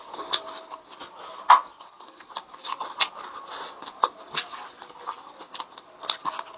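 Close-up mouth sounds of someone eating chicken: irregular wet chewing and lip-smacking clicks, with one louder smack about a second and a half in.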